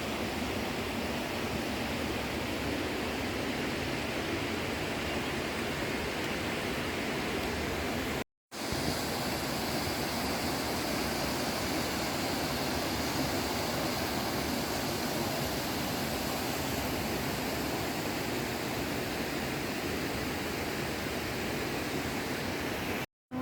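Steady rush of falling water from a mountain waterfall or stream, an even roar with no distinct events, cut off briefly twice by edits, about eight seconds in and near the end.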